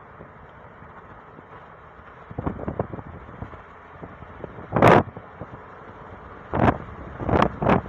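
Steady road noise from a moving car, broken by several sudden loud hits of wind or bumps on the microphone, the loudest about five seconds in and a quick run of them near the end.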